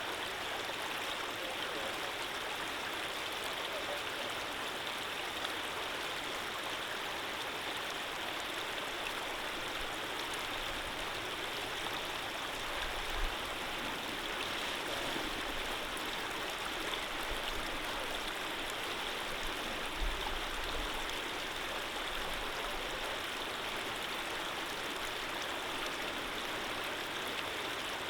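A stream of running water flowing steadily, a continuous even rush, with a couple of brief low rumbles partway through.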